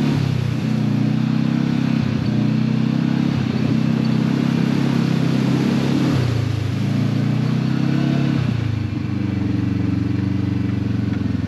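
Side-by-side UTV engine running under way, heard from on board, with its pitch shifting a few times as the throttle changes, once about six seconds in and again a couple of seconds later.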